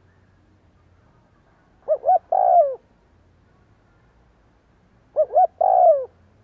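Spotted dove cooing: two calls about three seconds apart, each two short coos followed by a longer coo that falls in pitch at its end.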